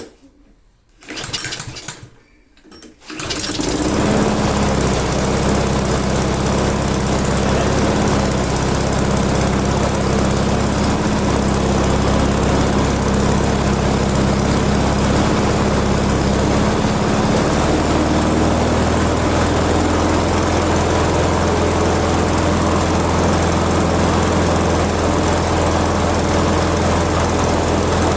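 Small lawn mower engine (Loncin) pull-started: a few short pulls, then it catches about three seconds in and runs steadily. Its note shifts about two-thirds of the way through as the carburettor's adjustment screw is turned in.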